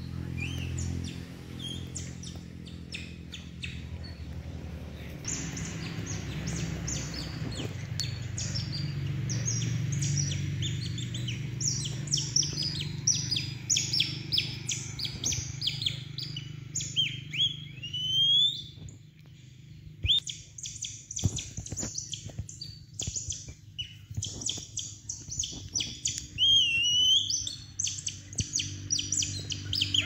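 Birds chirping in fast, repeated short high notes, with a few rising whistled calls mixed in and a brief lull in the middle; a low steady hum runs underneath.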